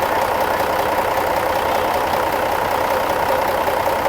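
A large vehicle engine running steadily at a constant pitch.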